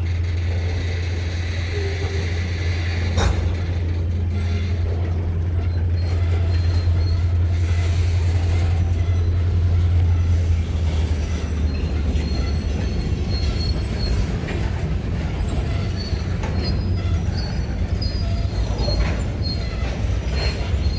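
A single diesel locomotive running on the rails with a steady deep engine drone. There is a sharp click about three seconds in, and light high-pitched wheel squeal in the second half.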